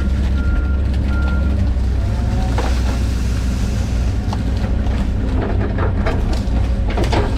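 John Deere 130G excavator's diesel engine running steadily under load, heard from the cab. A high travel-alarm beep repeats about every 0.7 s for the first second and a half, then cracks and knocks sound as wood splits under the machine.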